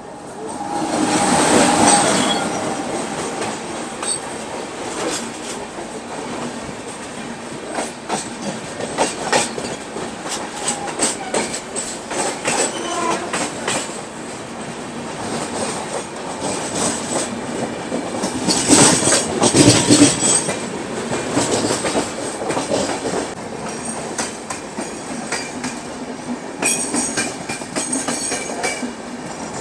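Passenger train passing close alongside on the next track, its wheels clattering over the rail joints in a rapid run of clicks. It swells loudest about two seconds in and again around nineteen to twenty seconds.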